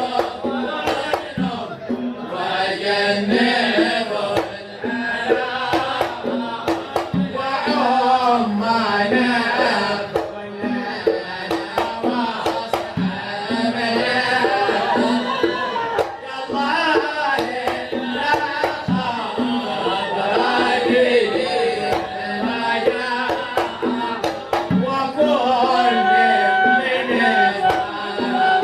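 Sama', Hadhrami Sufi devotional singing: a voice carrying a melodic chant line over scattered hand-drum strokes.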